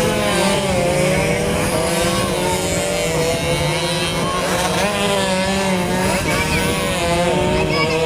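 Several 130cc two-stroke underbone racing motorcycles running hard, their engine pitches rising and falling against each other.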